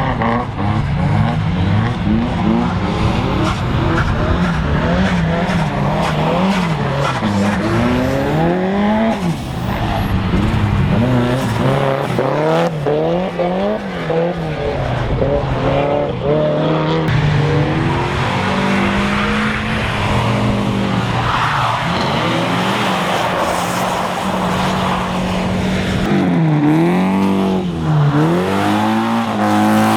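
Drift car engines revving up and down over and over as the cars slide, over the hiss and skid of tyres on a wet track.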